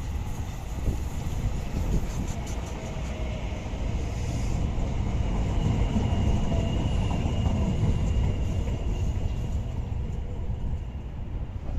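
A train passing on the line, its low rumble building to a peak mid-way and then fading, with a faint steady high whine over it.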